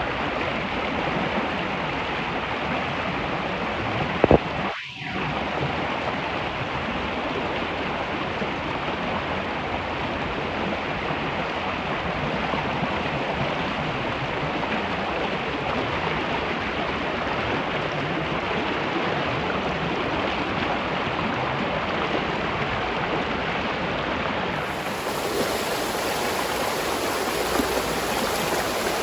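Spring water flowing steadily, an even rushing sound, broken by a sharp click and a brief drop-out about four to five seconds in.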